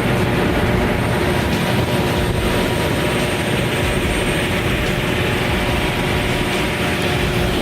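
Loud, steady running of a heavy vehicle's engine, cutting off suddenly near the end.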